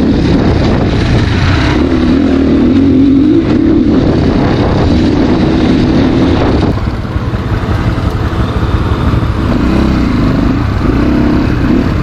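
Dirt bike engine running while riding, its pitch wavering up and down with the throttle. About seven seconds in the sound changes and drops slightly in level.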